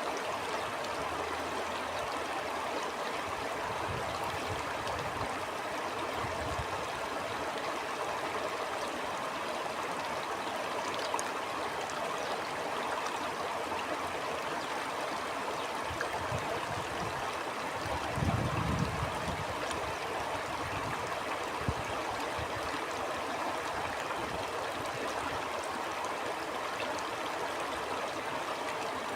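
Stream flowing steadily, an even rushing and gurgling of water. A few brief low rumbles of wind break in, the strongest about two-thirds of the way through.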